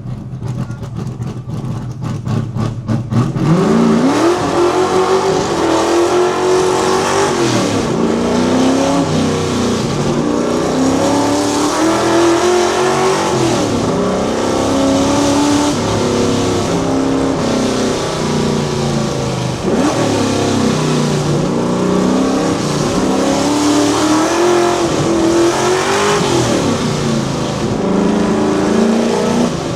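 Fox Body Mustang's V8 running with a rapid, lumpy pulse, then launching about three and a half seconds in and pulling hard under full throttle up a hillclimb course. Its note rises and drops back repeatedly at each gear change or lift.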